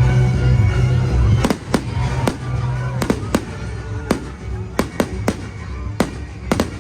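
A fireworks display: about a dozen sharp bangs at irregular intervals, starting about a second and a half in. Music with a heavy bass plays underneath, its bass dropping away as the bangs begin.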